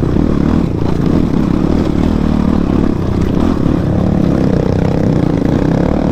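Motorcycle engine running while riding, steady, with its pitch wavering slightly up and down.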